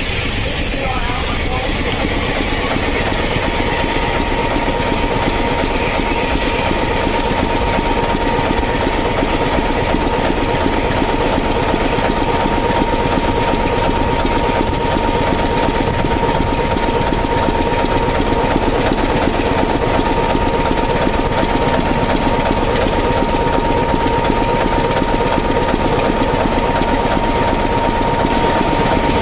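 Railway locomotive running steadily, with a constant high whine over dense mechanical noise.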